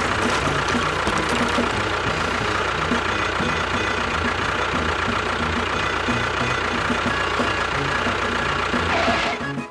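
Engine running steadily with a low, even chug. It swells briefly in pitch just before it cuts off near the end, where music takes over.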